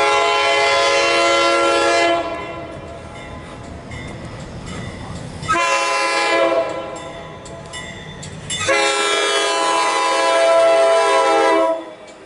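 MARC commuter train's horn sounding three blasts, long, short, then long, over the rumble of the approaching train.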